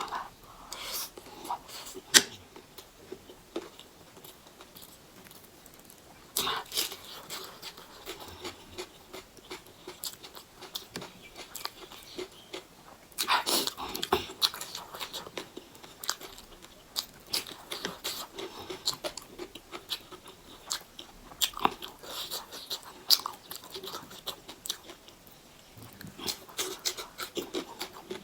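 Close-miked eating sounds: a person chewing and biting food, with irregular wet smacks and crunches.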